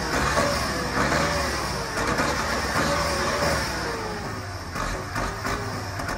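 Erkunt Haşmet 110 tractor's Perkins diesel engine running with a PowerBoost tune, its exhaust note rising and falling gently in pitch and easing off slightly towards the end.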